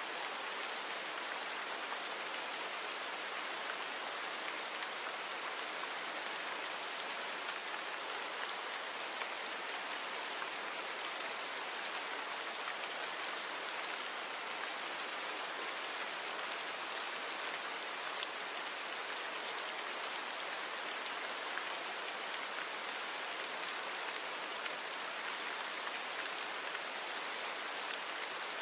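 Steady rain falling, an even hiss of many small drops with no thunder or other events, the recording noise-reduced.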